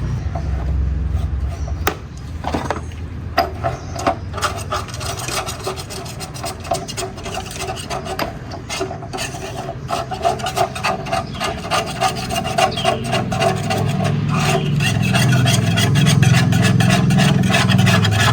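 Rapid, repeated rasping strokes of hand filing or scraping, several a second, over a steady low hum that grows stronger near the end.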